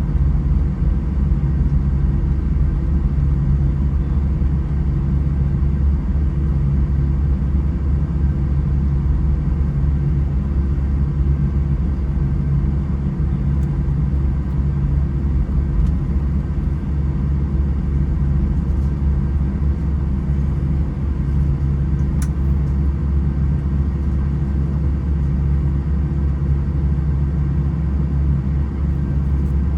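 Airbus A320 jet engines running with a steady low rumble and a faint constant hum, holding at one level throughout.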